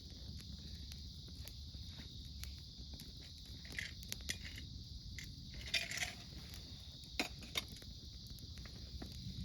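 Wood campfire crackling with scattered sharp pops, a louder cluster of crackles about six seconds in and two sharp pops just after, over the steady chirring of autumn insects.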